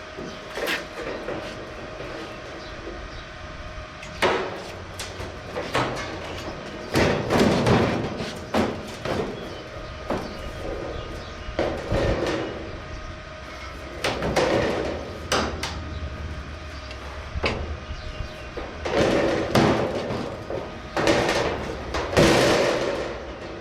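Thin sheet steel being handled and worked: irregular clanks, bangs and scraping of metal, some strokes ringing briefly, over a faint steady hum.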